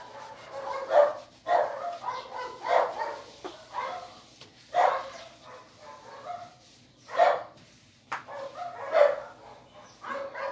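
A dog barking repeatedly, a short bark every second or two.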